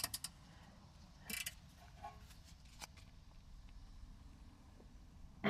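Mostly quiet, with a few faint clicks and a short scrape about a second in, as a wrench works on the 14 mm rear caliper bracket bolts.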